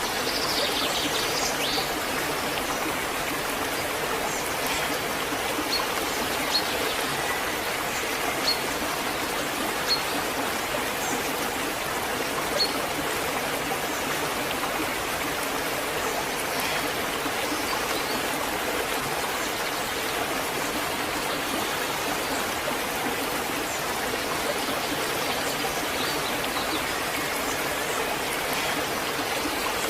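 Waterfall: a steady, even rush of falling water, with a few short high-pitched ticks about a third of the way through.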